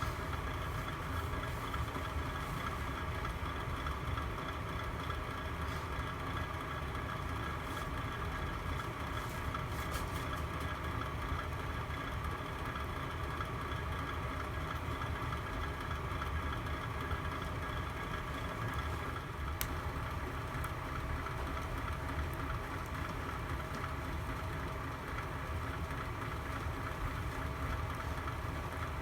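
Fireplace burning with a steady hum and hiss, marked by a few faint ticks.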